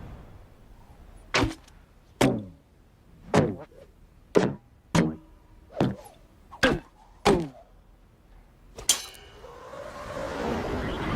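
A series of about eight sharp knocks at uneven intervals, each with a short ring that falls in pitch, as a sound-diversion trick. Music swells in near the end.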